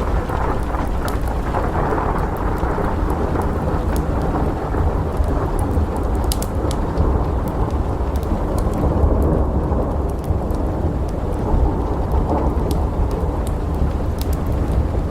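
Thunderstorm ambience: a continuous low rolling rumble of thunder under steady rain, with scattered sharp crackles and pops from a wood fire.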